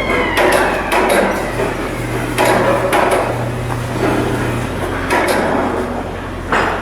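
Irregular metal hammer blows and bangs on steel, the clangs of hull construction work, over a steady background of shipyard noise.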